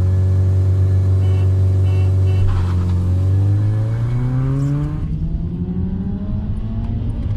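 Subaru Legacy 2.0R flat-four engines pulling hard under full-throttle acceleration in a drag race, heard from inside the cabin. The revs are held high, a gear change comes about two and a half seconds in, and then the engine note climbs steadily again.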